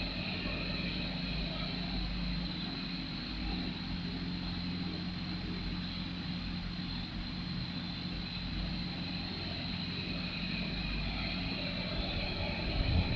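Electric fan running steadily, giving a constant low hum and buzz with an even airy hiss over it.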